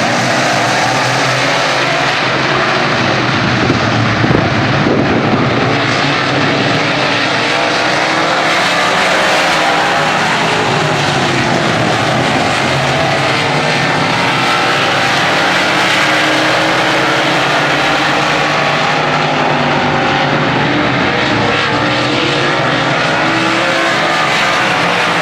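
Several racing engines running at once, their overlapping pitches rising and falling as they rev.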